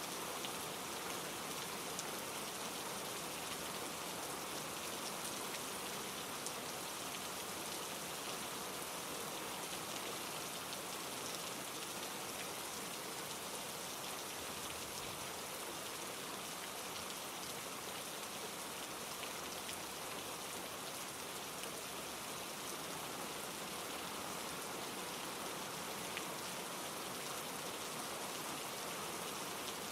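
Steady rain falling on leaves and pine needles, with scattered drop ticks, over a mountain stream rushing across granite rocks. The sound stays even throughout.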